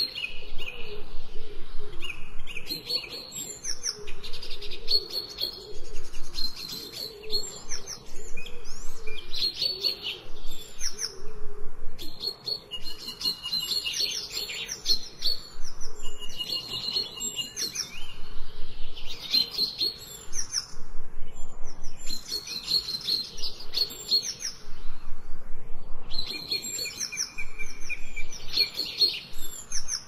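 Several songbirds chirping and singing, with high chirps and short whistled notes coming in quick clusters every second or two.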